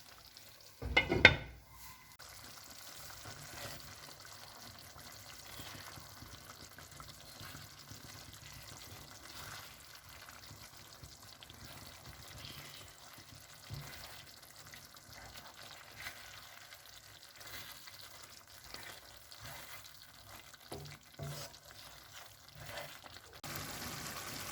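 Fish curry simmering in a covered pot: a faint steady sizzle with small scattered pops. About a second in, a short loud clatter.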